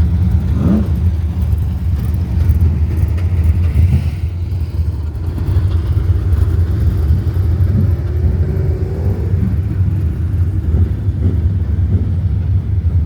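Banger racing car engines running with a loud, steady low rumble, with a brief rising rev about half a second in.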